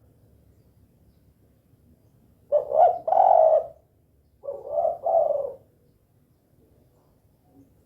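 Spotted dove (tekukur) cooing: two low coo phrases about two seconds apart, each a short note followed by a longer one.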